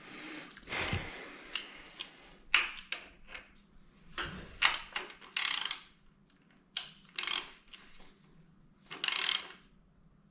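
Hand tools and metal engine parts clinking, knocking and scraping during an engine teardown, in a string of short, irregular sounds, a few of them drawn out to about half a second.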